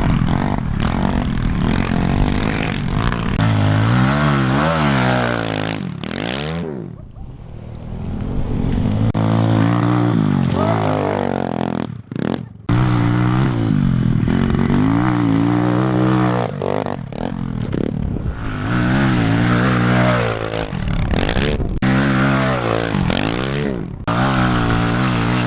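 Pit bike engine revving up and down again and again as the bike is ridden, the pitch climbing and falling with each twist of the throttle. The sound dips around seven seconds in and cuts out briefly about twelve seconds in.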